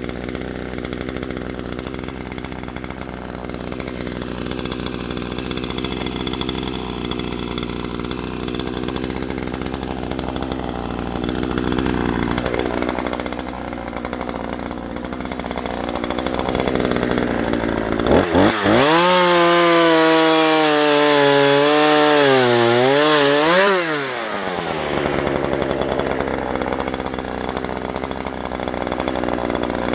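Small petrol engine running steadily, then revved high for about six seconds past the middle, its pitch wavering up and down before it falls back to a steady run.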